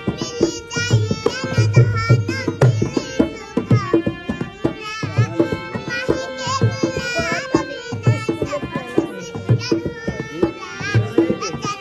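Indian music: a tabla plays a steady rhythm under a held drone while a young girl sings in wavering, ornamented lines.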